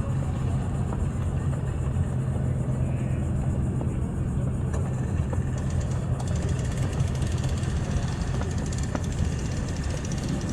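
An engine running steadily at idle, a low even hum with no revving.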